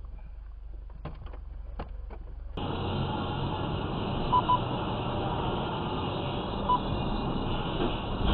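Vehicle noise: a low steady rumble with a few faint clicks, then an abrupt switch to louder, steady road and engine noise. Over it come short high electronic beeps, two in quick succession and one more later.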